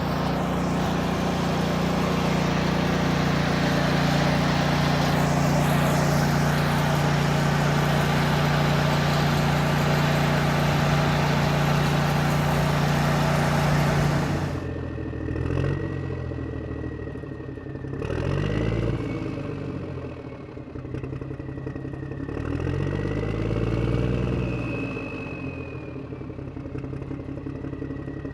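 Construction machinery engine noise. For about half the time there is a heavy, steady drone, then it changes abruptly to an engine revving up and falling back several times, with a thin high whine over it.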